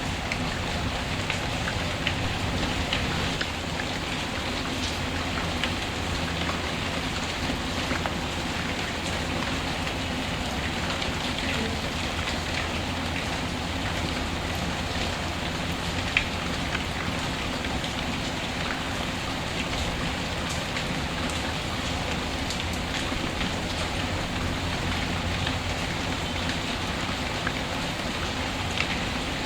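Steady heavy rain with scattered sharp crackles and clicks through it, one louder pop about sixteen seconds in.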